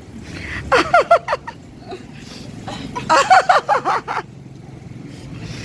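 Two short bursts of a person's voice, talking or laughing, about a second in and again around three seconds in, over a steady low rumble.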